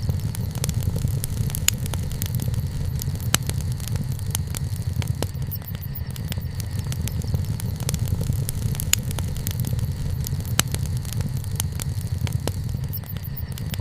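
Wood campfire burning: frequent sharp pops and crackles, several louder snaps among them, over a steady low rumble.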